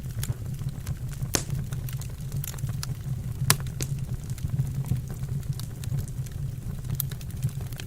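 Wood fire burning in a fireplace, crackling with irregular sharp pops over a steady low rumble; a few pops stand out louder.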